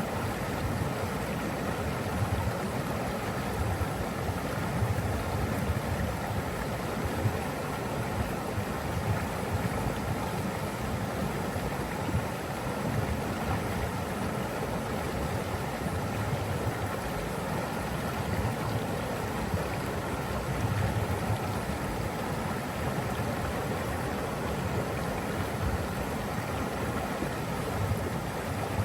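Flowing water rushing steadily, an even roar with no breaks.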